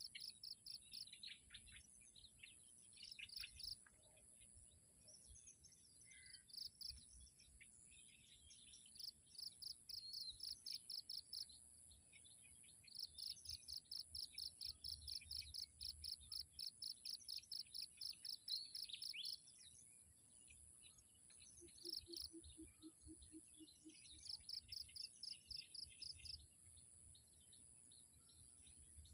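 Faint small-bird chirping in repeated rapid runs of high notes, the longest lasting several seconds, over a steady high-pitched insect drone.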